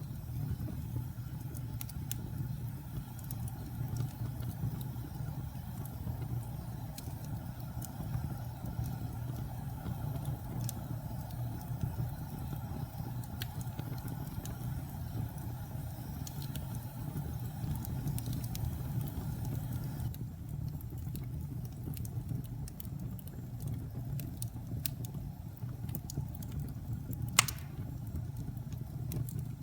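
Wood fire burning in a fireplace: a steady low rumble of the flames with scattered crackles, and one sharp, louder pop near the end.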